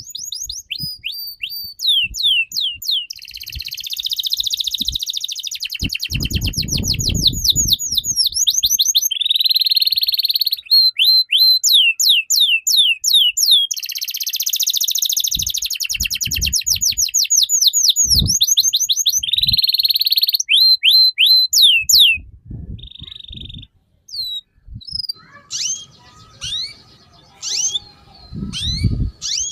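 A songbird singing loudly in long bursts of rapid, downward-sweeping whistles, several a second, broken by harsh buzzy notes. About 22 seconds in, the song drops to quieter, scattered notes.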